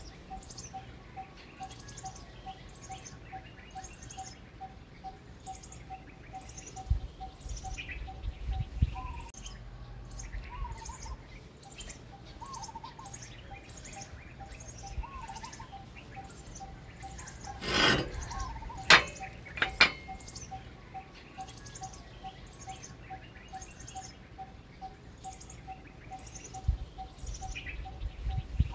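Birds calling: an even, rapid run of short repeated notes, with other curling calls and high chirps every couple of seconds. A few sharp knocks come about two-thirds of the way through.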